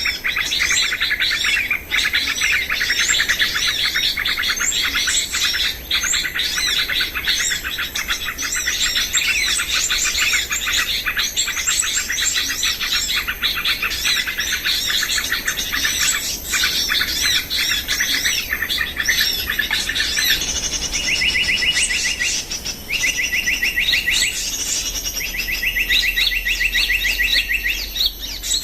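Songbirds chirping and singing in a dense run of quick calls. About two-thirds of the way through this gives way to a repeated trill, a rapid buzzy run about two seconds long, given four times with short breaks.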